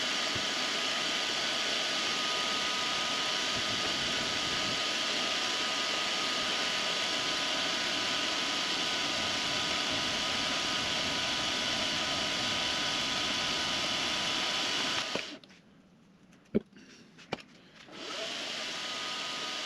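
Benchtop machine spindle and motor running steadily at high RPM while a cutter takes a light skim pass along an aluminum block, a steady whir with a faint whine. The machine stops about fifteen seconds in, two sharp clicks follow, and it starts running again, quieter, near the end.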